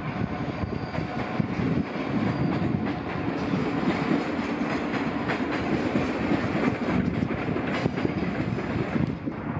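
Yellow-and-blue NS double-deck electric train passing on the tracks, its wheels clattering over rail joints and points under a steady rumble.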